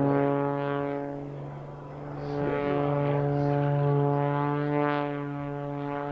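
Single-engine aerobatic airplane's propeller and engine at full power, a steady droning tone that fades a little about two seconds in, then swells back up.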